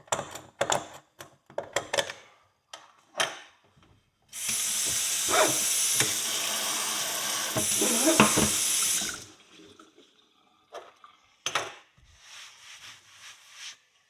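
Several quick scraping strokes on a metal horseshoe, then a kitchen tap runs for about five seconds as water pours over the shoe in the sink, cutting off abruptly. A few fainter scrapes follow.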